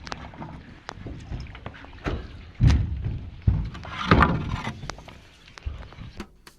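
Knocks and heavy thumps on a raft as it is pushed off from the bank, the loudest thumps a little past the middle.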